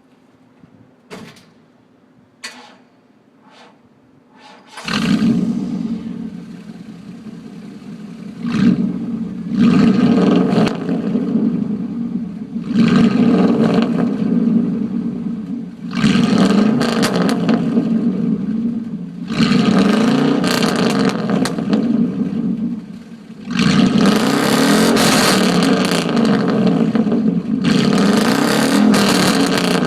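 1997 Chevrolet Tahoe's 350 V8 with true dual straight pipes, started about five seconds in after a few faint clicks, then revved repeatedly from idle. The revs come as a series of surges that drop back toward idle between them, and the longest and loudest one comes in the last quarter, toward redline.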